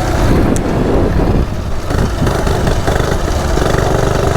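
Coleman CT100U minibike's single-cylinder four-stroke engine running under way, ungoverned, with its carburetor jet drilled out. The level dips briefly about a second and a half in.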